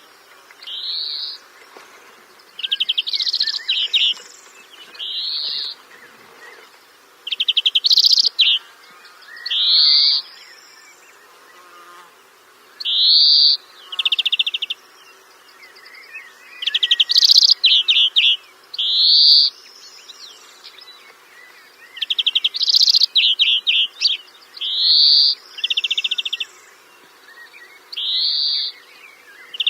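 A bird calling over and over, about one call a second, alternating clear rising whistled notes with short buzzy rattling notes, over a faint steady background hum.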